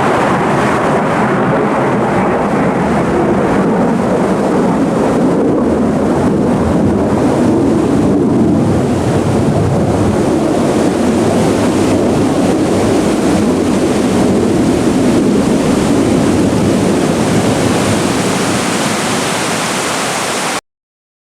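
Loud, steady rush of fast-flowing water, as of a creek over rocks or a waterfall, cutting off suddenly near the end.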